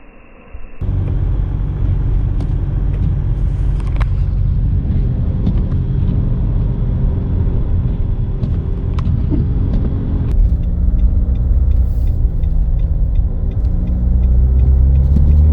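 Car engine and road noise while driving, steady, growing louder near the end. It starts suddenly about a second in.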